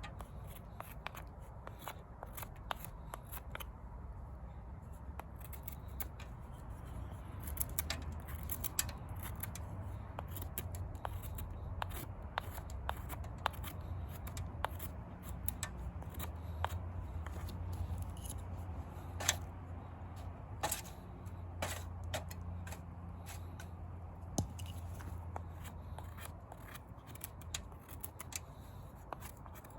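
Wood campfire crackling, with irregular sharp pops and snaps over a steady low rumble; a few louder pops come about two-thirds of the way through.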